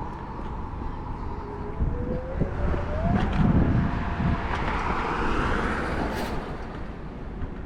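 Apollo Go electric scooter's motor whining, its pitch rising as the scooter speeds up about a second into the ride and then holding steady. Wind buffets the action-camera microphone and road rumble runs underneath, heaviest a few seconds in.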